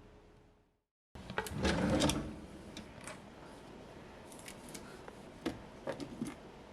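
Household items handled in a kitchen: a short rustling clatter about a second and a half in, then scattered light clicks and taps.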